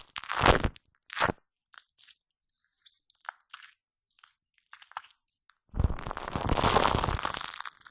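Shaving foam squished and rubbed right against the microphone, giving crackling, sticky squelches. Two short bursts come early, then faint crackles, then a long, loud stretch of rubbing lasting about two seconds near the end.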